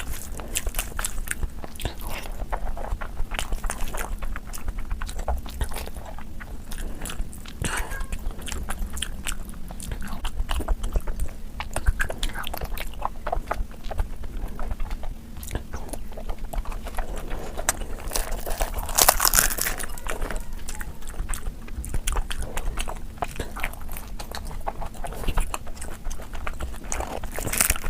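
Close-miked eating: a person chewing and biting big mouthfuls of mutton fat curry with rice, with many small mouth clicks. A louder bite comes about two-thirds of the way in.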